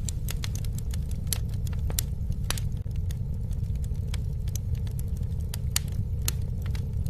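Campfire crackling: irregular sharp pops and snaps over a steady low rumble of the flames.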